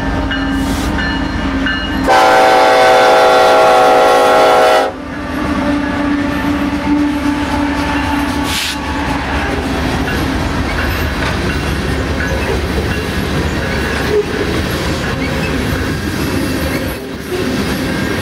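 Diesel locomotive horn sounds one long, loud chord about two seconds in, lasting nearly three seconds, over the rumble of the approaching freight locomotives. The loaded coal hopper cars then roll steadily past, with wheel clatter on the rails.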